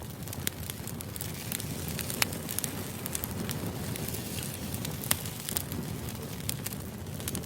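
A steady low rushing noise with many irregular sharp crackles and pops, typical of a crackling-fire ambience played as background noise.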